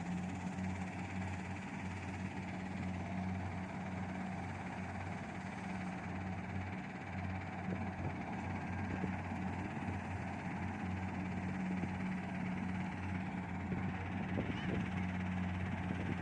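Kubota DC70 Plus rice combine harvester running steadily while cutting, its diesel engine giving an even low drone.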